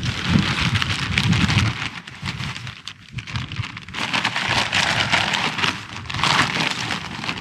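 Rain falling steadily on the fabric of a small backpacking tent, a dense spatter of drops. A low rumble swells in the first second or two and again near the end.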